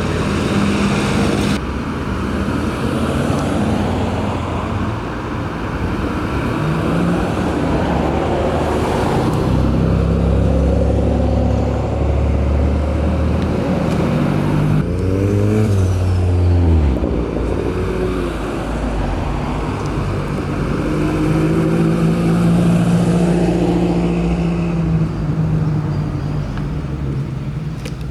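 Cars driving slowly past one after another, their engines running. About halfway through, one engine revs briefly, its pitch rising and then falling.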